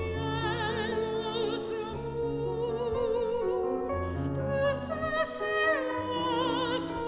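Classical soprano singing long, held notes with a wide vibrato, accompanied by piano playing sustained low chords.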